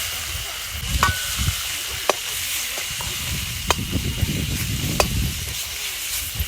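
Food sizzling in a hot pan as it is stir-fried, with a metal utensil clinking sharply against the pan four or five times and scraping through the food.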